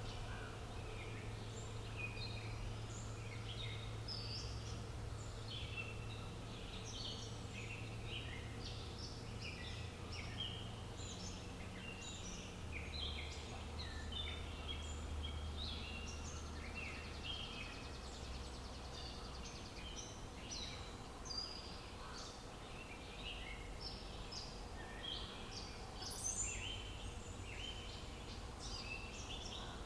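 Outdoor ambience of many small birds chirping and singing in a dense, overlapping chorus, over a low steady rumble.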